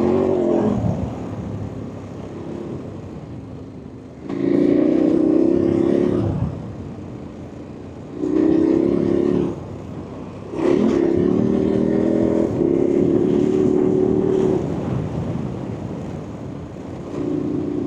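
KTM 1290 Super Adventure's V-twin engine opening up in repeated bursts of throttle and easing off between them: a loud pull at the start, others about four and eight seconds in, a longer one from about eleven to fifteen seconds, and a short one near the end.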